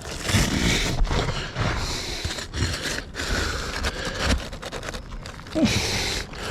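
Asphalt roof shingles scraping and rustling as a damaged shingle is worked loose from under the course above, in a series of strokes with a louder one near the end.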